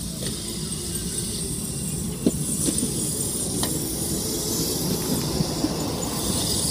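Riding noise of a Razor electric dirt bike: a steady low rumble with hiss, and a few sharp clicks about two to four seconds in.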